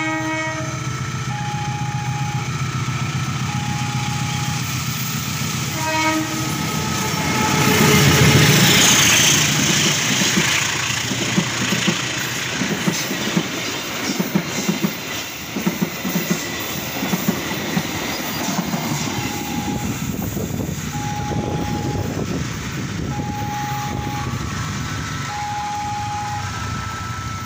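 A locomotive-hauled passenger train passing over a level crossing. The diesel locomotive gives two short horn blasts, at the start and about six seconds in, and goes by loudest around eight seconds in. Then comes the rhythmic clickety-clack of the coaches' wheels over the rail joints. A level-crossing alarm chimes in an even, alternating two-tone pattern before the train arrives and again after it has passed.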